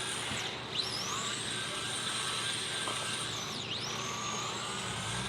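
Vehicle noise: a steady rumble with faint high-pitched whines that slide down and back up twice.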